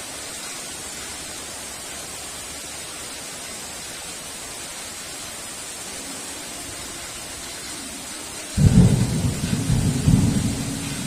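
Steady heavy rain hissing, then about eight and a half seconds in a clap of thunder breaks suddenly and rumbles on loudly.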